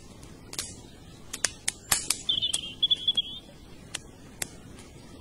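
Irregular sharp clicks and pops, a few each second and clustered more densely about two seconds in, with a short high warbling chirp in the middle.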